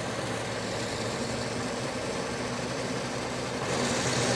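Tractor engine running steadily at idle. About three and a half seconds in, a higher rushing noise joins it and the sound gets louder.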